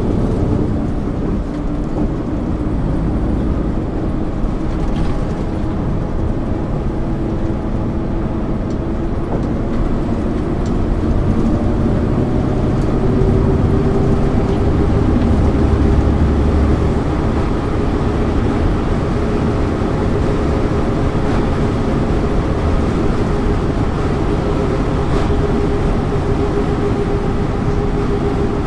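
Diesel engine of a 1999 MAN ÜL 353 intercity bus heard on board while driving, running steadily with road and tyre noise. About halfway through the engine note rises and grows louder for a few seconds as it pulls harder, then settles.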